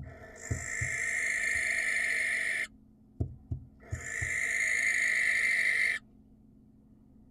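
Barn owl screeching: two long screeches of about two seconds each, separated by a short pause, with a few low knocks in between.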